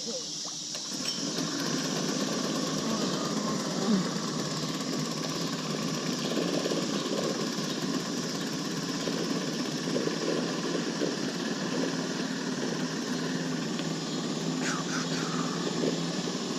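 Small boat motor running steadily at a constant pitch.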